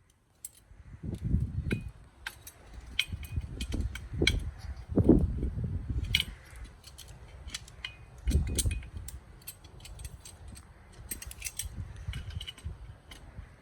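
Metal tools and parts clinking and clattering as they are handled, with a few dull knocks in between. No steady run of an impact gun is heard.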